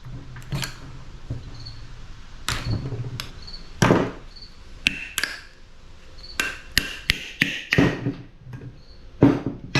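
Irregular knocks and clanks of tools striking metal parts of a scrapped air conditioner, some with a brief metallic ring, as a part is worked to check whether it is copper.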